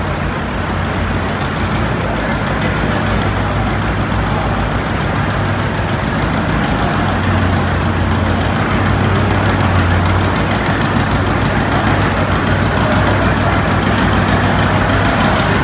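Antique pulling tractor's engine running steadily, getting a little louder about halfway through.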